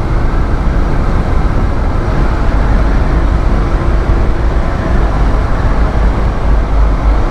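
Suzuki DR650 single-cylinder engine running steadily under way, mixed with loud low wind and road rumble on the rider's microphone, inside a road tunnel.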